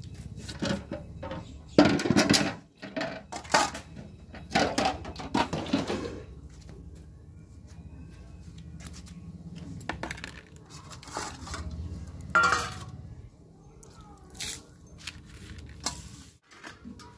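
A spoon clinking and scraping against a bowl during a meal: scattered short clicks with a few louder clatters. A low steady hum runs underneath and stops shortly before the end.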